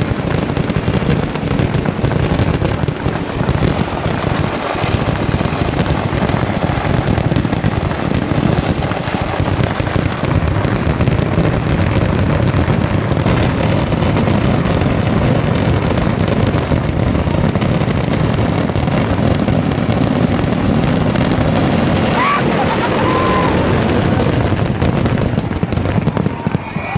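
Kerala temple-festival fireworks (vedikettu): a dense, continuous barrage of firecracker and shell explosions. The blasts follow so closely that they merge into one unbroken, booming din.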